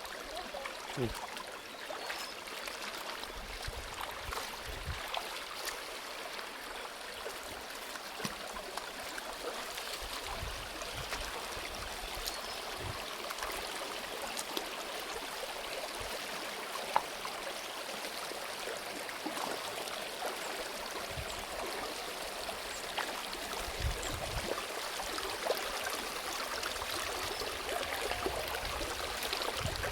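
Stream water running steadily over rocks. A few faint knocks and one sharp click about halfway through.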